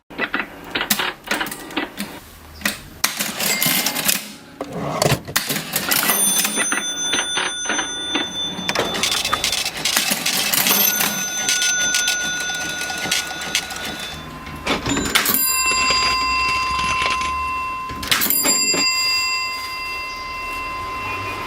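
Vintage mechanical cash register being worked: keys and levers clack in quick runs, and its bell rings several times, each ring lingering.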